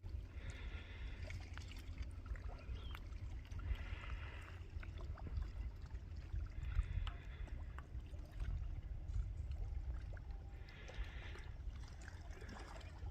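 Quiet low rumble of a bicycle rolling along a trail, with soft hisses every few seconds and faint ticks.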